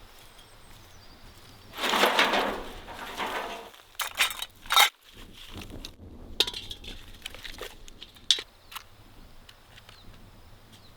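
Objects being handled: about two seconds of rustling or crushing noise, then a run of sharp clinks and knocks, with a few more scattered after.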